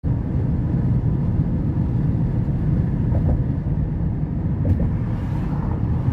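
A moving car's steady low rumble of road and engine noise.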